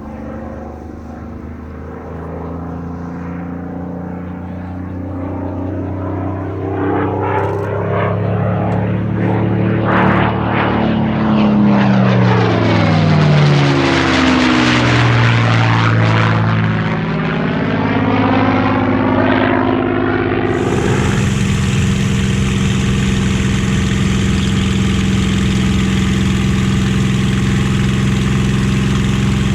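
Merlin V12 piston-engined warbird flying past, its engine note building to a peak and then dropping in pitch as it passes. About twenty seconds in, the sound switches abruptly to a steady, even engine drone.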